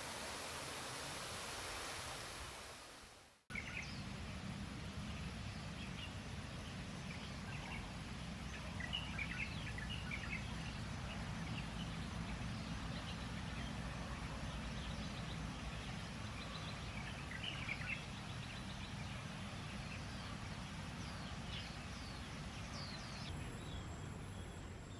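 Outdoor ambience with scattered short bird chirps over a steady low rumble and a thin, steady high-pitched hiss. The sound cuts out briefly about three and a half seconds in, and a new stretch of ambience begins.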